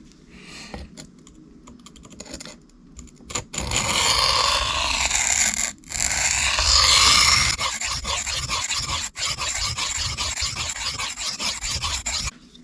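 Steel knife blade scraped back and forth on a coarse diamond sharpening plate, reprofiling a chipped edge and removing metal fast. The loud gritty scraping starts a few seconds in, breaks off briefly, then goes on in quicker, shorter strokes until just before the end.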